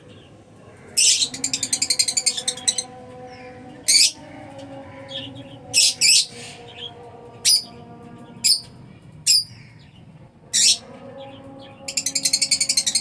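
Lovebirds calling: sharp, high chirps and squawks, with a bout of rapid chattering about a second in and another starting near the end.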